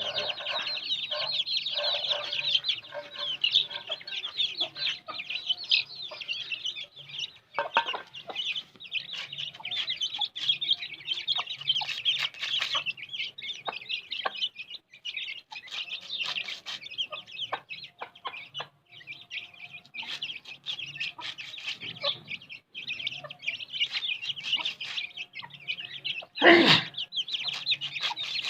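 Aseel hen clucking softly while her chicks peep without pause in a dense high chorus. There is one loud, short sound near the end.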